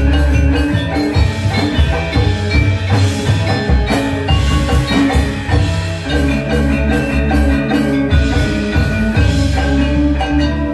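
Balinese gamelan ensemble playing: many quick struck metallophone notes over a sustained low ring.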